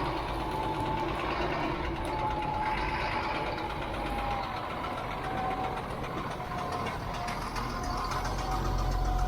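Caterpillar 3126 7.2-litre diesel engine idling steadily just after starting, left running to build up air pressure, with a faint whine that drifts slightly lower.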